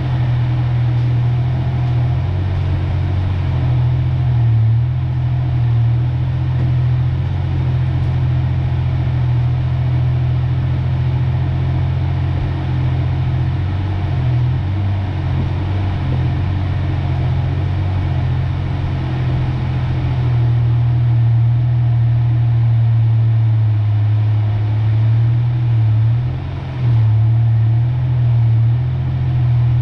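A 1993 Ford Ranger pickup's engine running steadily at low speed as a low, even drone. It shifts a little in pitch partway through and eases off briefly near the end.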